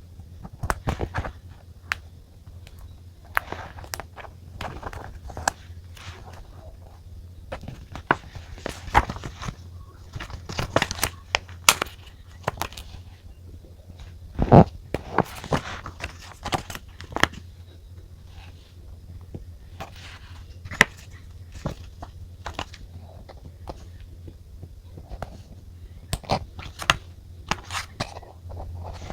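Desk-top journaling sounds: a run of small taps and clicks with short rustling and scratching of paper and stationery, and one louder knock about halfway through, over a low steady hum.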